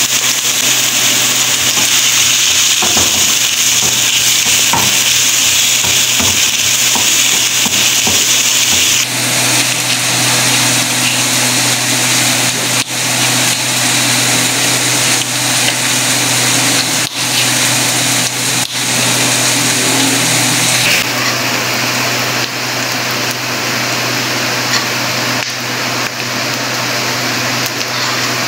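Chopped onions sizzling in hot oil in a non-stick frying pan, a loud steady hiss. The sound changes abruptly about 9 seconds in and again about 21 seconds in, with a few sharp clicks in the middle stretch as a knife slices a tomato on a cutting board.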